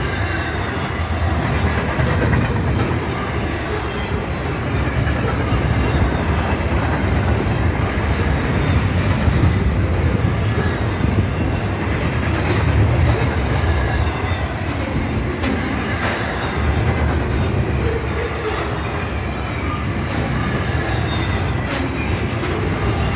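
Freight train rolling past: a steady, loud rumble of railcars with an occasional click of wheels over the rail joints.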